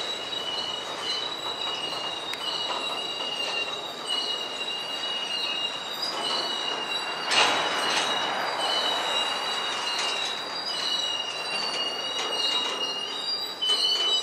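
Freight cars of a manifest train rolling past with their wheels squealing in a steady high pitch over the rumble of the cars, with one sharp clank about seven seconds in.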